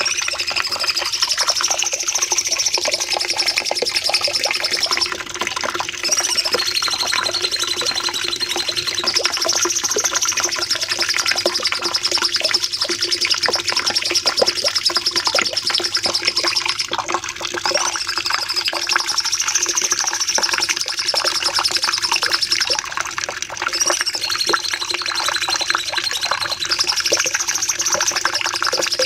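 Cucak cungkok song: a long, rapid, high-pitched trilling phrase ('nembak panjang') whose pitch rises and dips. The same phrase comes round about every eleven or twelve seconds, as a looped recording, over a faint steady low hum.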